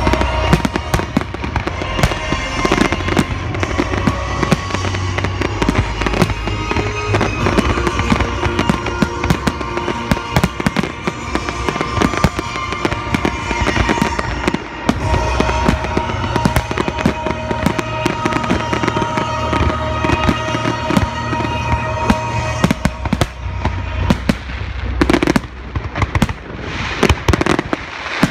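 Fireworks display: a dense run of aerial shells bursting, rapid bangs and crackling one after another, with music playing underneath. Near the end the music thins out and the bursts carry on alone.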